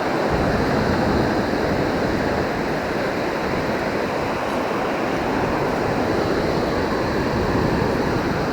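Steady rush of ocean surf breaking on the beach, with some wind on the microphone.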